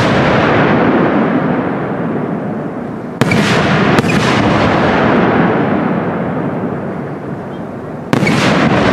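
Aerial firework shells bursting with sharp booms: one about three seconds in, another a second later and a third near the end, each followed by a long rolling echo that slowly fades.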